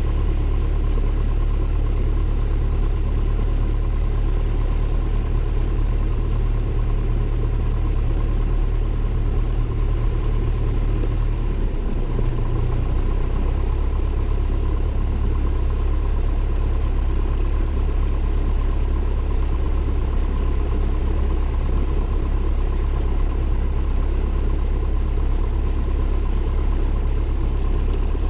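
Cessna 172N's four-cylinder Lycoming engine and propeller running steadily, heard from inside the cockpit as a constant drone. The low hum shifts slightly in pitch about twelve seconds in.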